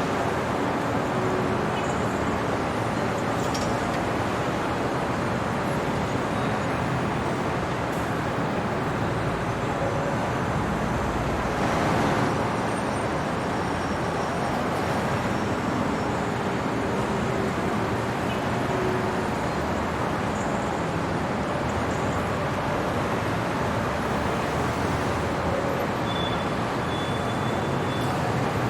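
Steady city traffic noise: a continuous hum of road traffic, swelling briefly about twelve seconds in as a vehicle passes close, with faint short tones over it.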